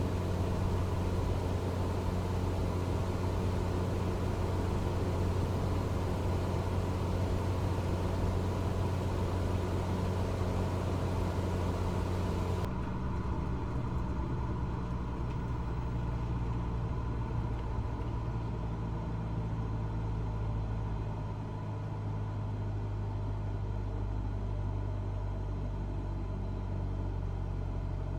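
Cessna 172 engine and propeller droning steadily in flight, with a strong low hum and hiss over it. About halfway through, the sound changes abruptly: the hiss drops away and the hum settles slightly lower.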